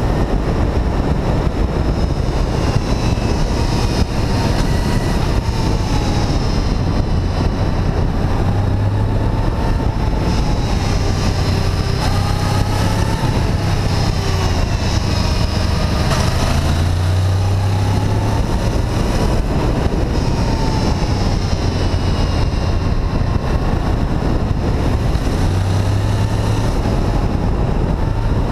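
Honda VFR800 VTEC's V4 engine running under way, its pitch rising and falling with the throttle, over a steady rush of wind noise.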